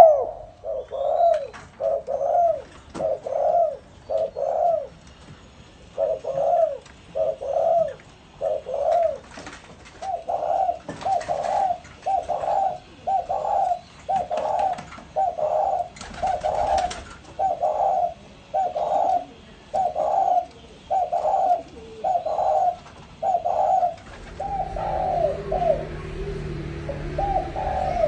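Spotted dove cooing: a long run of short coo notes, about one a second, with a couple of brief pauses. A low hum comes in during the last few seconds.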